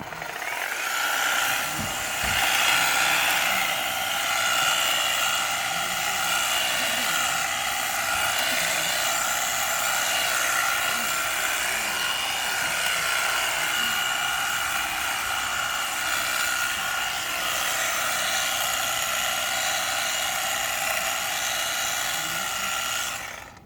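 Powerworks 40V commercial cordless hedge trimmer running, a steady high-pitched motor whine that cuts off near the end.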